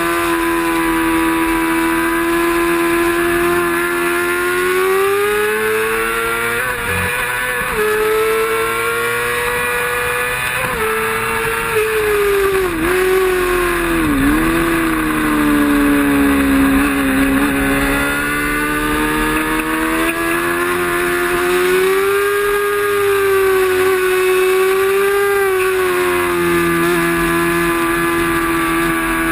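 Racing motorcycle engine held at high revs, its pitch rising and falling as it runs through the gears, with two brief sharp dips in pitch about halfway through.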